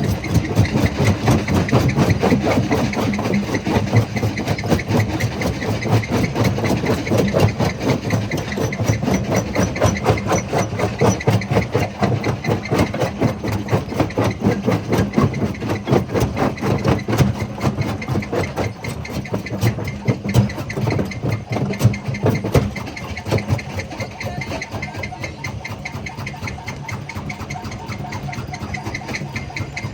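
Stone jaw crusher running: a steady heavy machine drone with dense, rapid knocking and cracking of stone. It is busier and louder for the first two-thirds and eases off after about twenty seconds.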